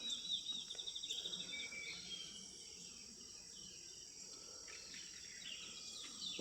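A songbird sings a fast trill in the first second or so, followed by a few shorter notes; under it runs a steady high-pitched insect buzz.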